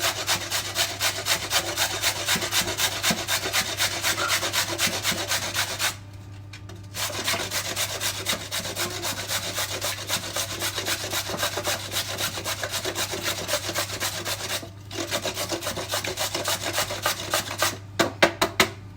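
A carrot being grated on a grater: fast, even rasping strokes, several a second, with a pause of about a second partway through and a short one later. A few separate knocks come near the end.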